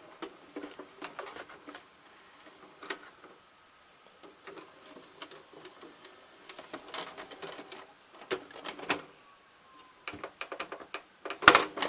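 Irregular plastic clicks and clatter from a VCR and VHS cassette being handled, with the loudest clicks near the end.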